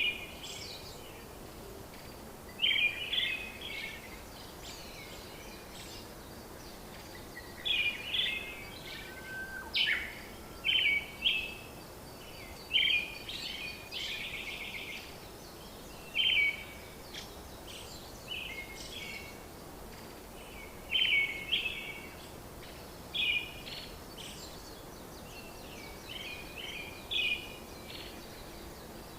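Birds chirping and singing in short phrases every second or two, over a steady background hiss.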